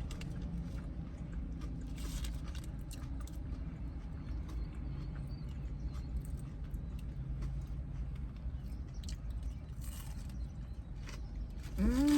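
Close-up chewing of a steak, egg and cheese bagel sandwich: wet mouth clicks and bites, a few louder ones, over a steady low hum. Near the end a closed-mouth "mmm" of enjoyment begins, rising and then slowly falling.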